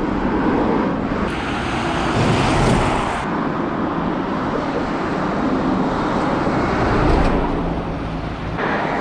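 Road traffic noise with wind rumbling on the microphone as a bicycle rides along a busy road; the noise swells for a couple of seconds about a second in.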